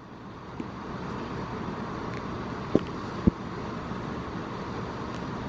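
Steady outdoor background noise, with two short light knocks about half a second apart near the middle.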